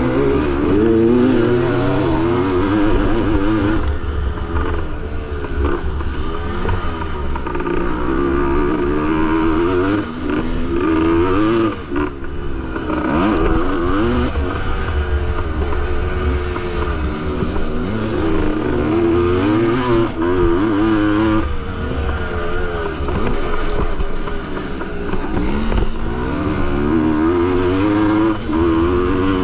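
1973 Yamaha MX250's two-stroke single-cylinder engine revving hard under race load, its pitch rising and falling again and again as the throttle opens and closes, with brief drops around ten and twelve seconds in.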